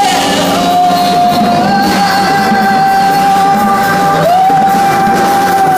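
A woman singer holding one long high note over a live band, dipping slightly in pitch and returning, then scooping back up to it near the end.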